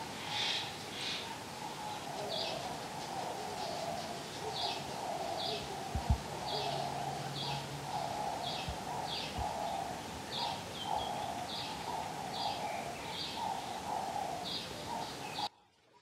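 Birdsong: short high chirps repeating about twice a second, each with a lower call beneath it, over a soft hiss. A few soft knocks fall about halfway through, and the sound cuts off suddenly just before the end.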